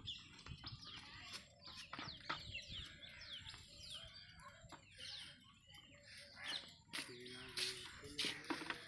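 Birds chirping with many quick, falling calls, over faint outdoor background with scattered clicks. About seven seconds in, a lower call with steady tones stands out briefly.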